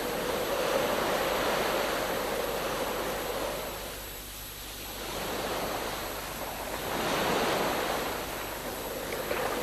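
Ocean waves, a rushing wash of surf that slowly swells and ebbs.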